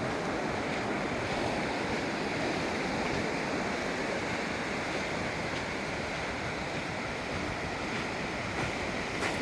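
Pacific Ocean surf washing steadily on the beach, with some wind, and a short click near the end.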